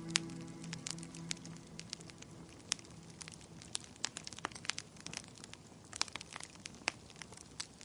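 Wood fire crackling in a fireplace: irregular sharp pops and snaps over a soft hiss. The last notes of soft music fade out in the first couple of seconds.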